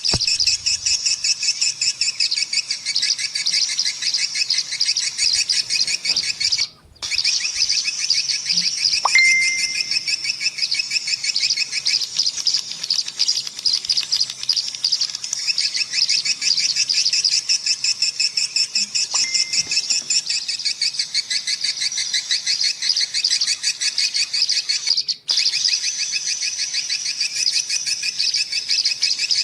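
A dense, continuous chorus of swiftlet twittering calls, rapid high chirps without pause, broken by two brief gaps about a quarter and most of the way through.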